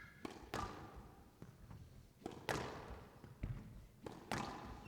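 Squash rally: the hard rubber ball is struck by racquets and cracks off the court walls in about six sharp, irregularly spaced hits, each ringing briefly in the court. A short shoe squeak comes right at the start.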